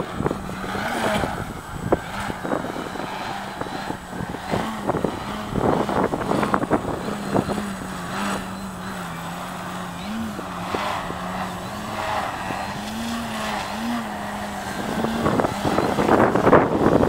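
Brushless electric motor (Turnigy AIR 5055-600) of an RC Yak 54 aerobatic plane spinning a 15x8 APC propeller: a steady buzzing drone that rises briefly in pitch several times. Wind gusts buffet the microphone, strongest near the start and near the end.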